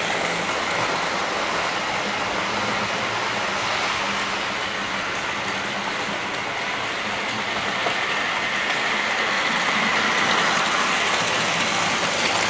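OO gauge model train running steadily around the track: a continuous whirr of the small electric motor and the wheels on the rails, swelling a little in loudness over the last few seconds.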